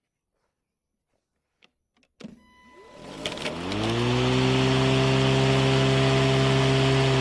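A few clicks of the safety lever and start switch, then a 40-volt cordless lawn mower's electric motor and blade spin up with a rising whine. From about four seconds in it runs steadily at full speed.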